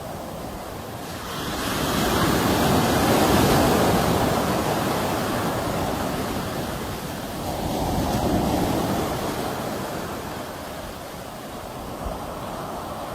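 Sea waves rushing in: a steady wash of surf that swells to a peak about three seconds in and again about eight seconds in, then ebbs before the next wave builds near the end.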